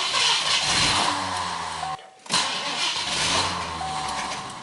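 The carbureted 351 V8 of a 1981 Mercury Grand Marquis is running unevenly during a −26 °C cold start while the throttle is worked to set the high-idle cam. The engine won't hold an idle without high idle, a sign of the flood-prone carburettor that is due for a rebuild. The sound breaks off sharply for a moment about two seconds in, then comes straight back.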